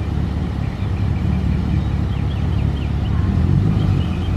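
Chevrolet Camaro SS's 6.2-litre V8 idling with a steady low rumble that grows a little louder about three seconds in. Faint high chirps sound over it.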